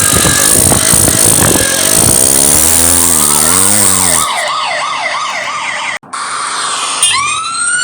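Cartoon vehicle sound effects: a noisy car engine, then a police siren warbling rapidly about three to four seconds in. After a brief drop-out about six seconds in, a siren winds up with a rising pitch near the end.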